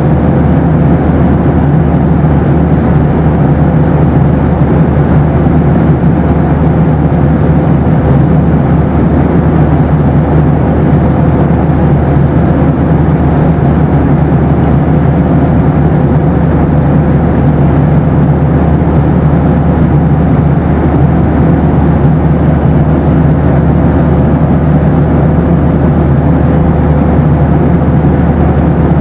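Steady cabin roar of a Boeing 737 airliner: engine and airflow noise, even and unbroken, with a steady hum in it.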